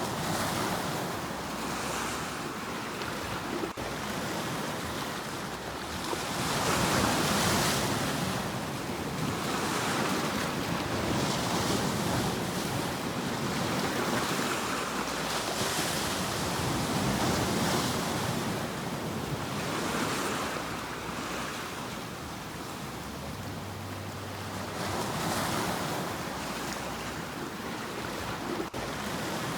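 Ocean waves breaking on a shore, the surf swelling and washing back every few seconds.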